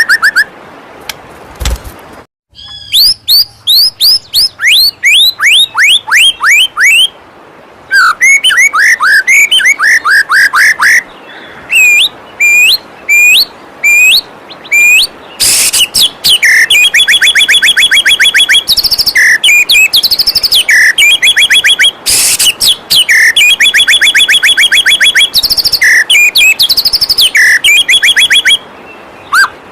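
White-rumped shama song: runs of quick falling whistled notes and fast, evenly repeated chattering notes, broken by short pauses, over the steady rush of a waterfall.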